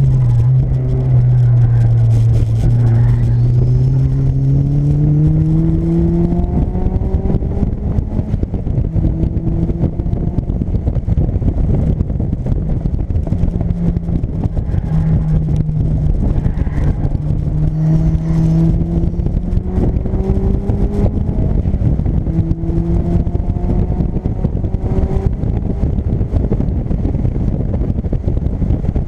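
Turbocharged Mazda MX-5's four-cylinder engine, heard from inside the cabin as the car is driven hard. The pitch climbs through a long pull in the first few seconds, then rises and falls again and again as the driver accelerates, lifts and changes gear.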